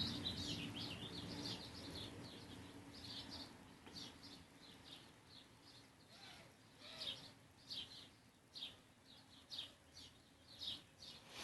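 Knife blade being stroked across the fine side of a whetstone: quiet, evenly spaced scrapes about once a second.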